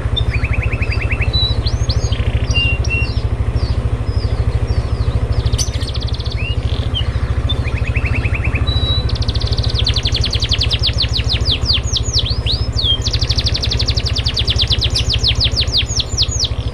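A songbird singing: scattered chirps and whistles with short trills, then, about halfway through, long fast runs of rapidly repeated sweeping notes. A steady low hum sits beneath it.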